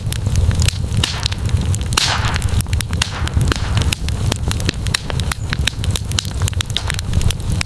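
Wood campfire crackling, with many sharp pops and snaps over a steady low rumble, and a brief hiss about two seconds in.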